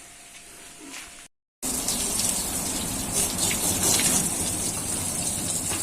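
Water running steadily from a tap in a loud, even gush, starting abruptly about a second and a half in after a moment of quiet room tone.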